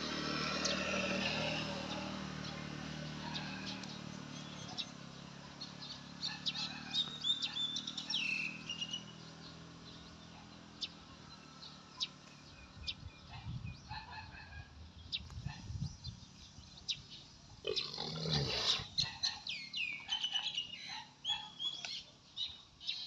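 Small birds chirping in short, repeated calls, with a low engine drone fading away over the first few seconds and a brief louder burst about three-quarters of the way through.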